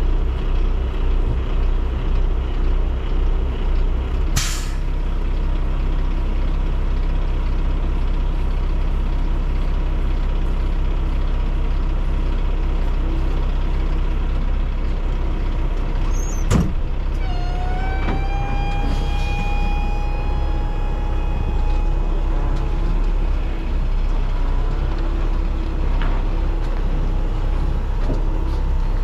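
Semi truck's diesel engine running steadily while the truck is backed in, with a short hiss of air about four seconds in. Midway a sharp click is followed by a whine that rises and then holds for about five seconds.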